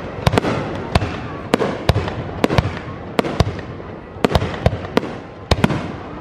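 Aerial firework shells bursting in rapid, irregular succession, sharp bangs often in pairs, with echoes filling the gaps between them.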